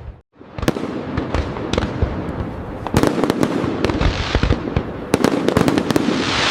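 Fireworks display: a quick run of sharp bangs and pops over steady crackling. It cuts out briefly just after the start, and near the end a dense, loud crackling hiss sets in.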